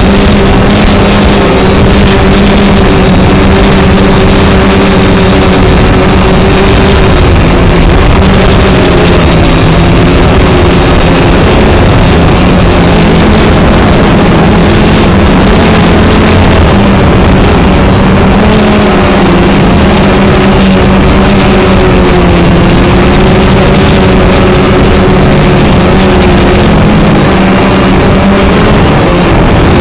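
Alfa Romeo Giulia's twin-cam four-cylinder engine running steadily and loudly, its pitch drifting slightly every few seconds.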